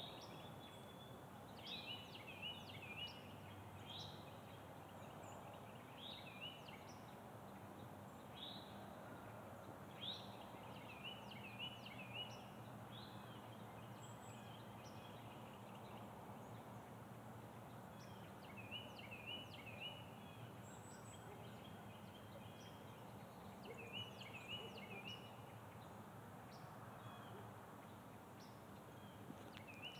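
Birds calling faintly: sharp downward chirps every couple of seconds and a short wavering phrase now and then, over a faint steady low hum.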